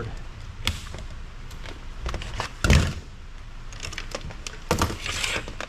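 Clicks, knocks and handling noises as parts of an amplifier's power supply board and its wiring are worked loose and moved about. The loudest knock comes just under three seconds in, with another cluster of clicks about a second before the end.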